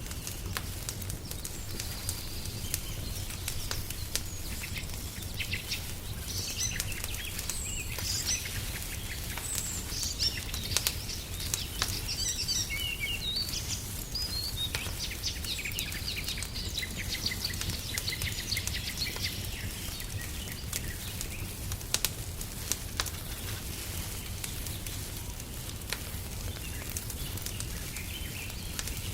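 Wood fire crackling in a fireplace, with sharp pops throughout over a low rumble. Small birds chirp and sing over it through the middle stretch, fading out after about twenty seconds, with a brief chirp again near the end.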